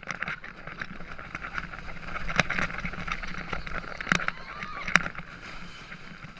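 Wooden roller coaster train rattling along its track: a steady hiss with several sharp clacks.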